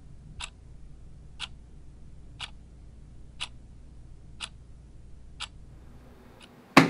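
Clock ticking evenly once a second, over a low steady hum. Just before the end, a single loud sharp thump as hands slap down flat on a tabletop.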